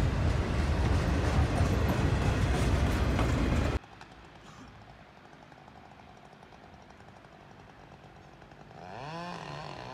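Car on the move, with steady loud road and engine noise that cuts off abruptly about four seconds in to a faint, quiet background. A voice starts just before the end.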